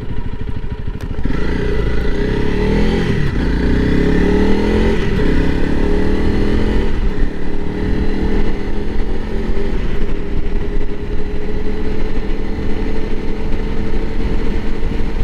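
Honda CRF300L Rally's single-cylinder engine running under way, its pitch rising and falling over the first several seconds, then holding steady.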